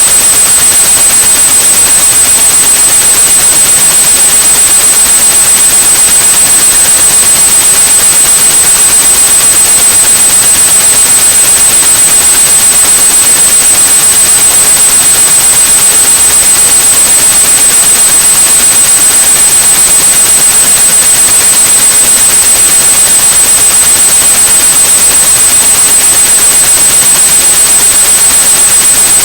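Steady synthetic white noise with a continuous high-pitched 8100 Hz sine tone over it, a tinnitus-masking sound.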